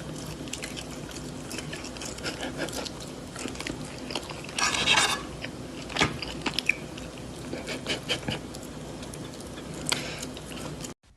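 Crunching and chewing: irregular crisp crunches over a steady low hum, with a louder dense run of crunches about five seconds in. The sound cuts off abruptly near the end.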